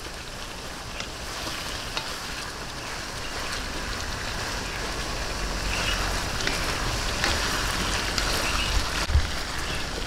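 Sliced hotdogs and ground pork sizzling in hot oil in a wok while being stirred and turned with a wooden spatula and a silicone spatula. A steady frying hiss that grows a little louder, with a few sharp clicks of the spatulas against the pan.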